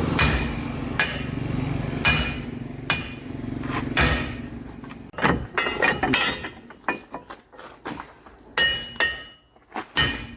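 Hammer blows on steel, about fifteen ringing metallic strikes at uneven intervals, as pins and links are worked out of a bulldozer's track chain. A steady low hum runs under the first few seconds and then fades.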